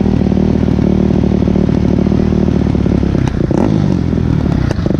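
Dirt bike engine running steadily, then about three seconds in its pitch wavers unevenly and a few sharp knocks or clatters sound.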